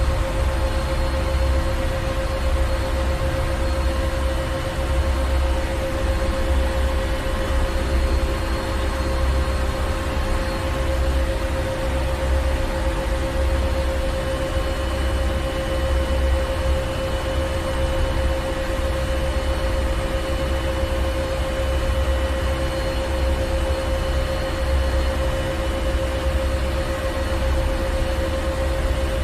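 Ship engine room machinery running steadily: a deep rumble with a constant hum and an even hiss over it, unchanging throughout.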